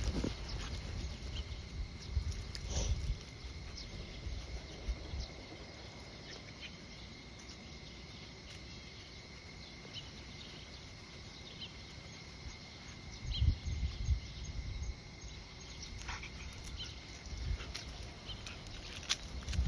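Insects calling steadily on one high pitch, with scattered faint bird chirps. Brief low wind buffets on the microphone come near the start and again about two-thirds of the way in.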